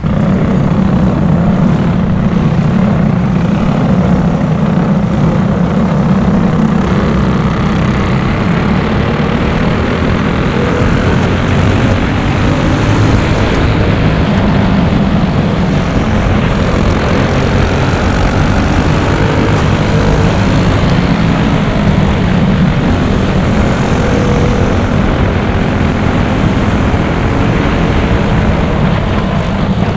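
Clone-class racing kart's small single-cylinder four-stroke engine running steadily at speed, with no let-up.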